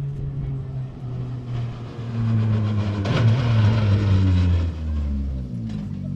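Rally car engine running hard at high revs as the car passes close. It is loudest between about three and four and a half seconds in, with a rush of broad noise, and the engine note drops as it goes by.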